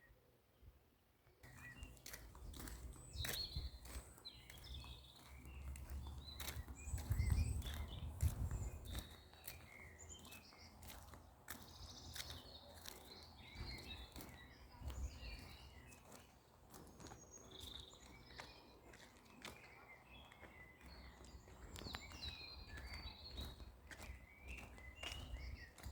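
Birds chirping in many short calls, starting about a second and a half in, with scattered sharp clicks throughout. A low rumble peaks about seven to eight seconds in and is the loudest sound.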